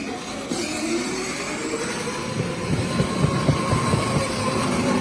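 A vehicle in motion: steady rumbling noise with a faint steady whine, the rumble growing heavier about two seconds in.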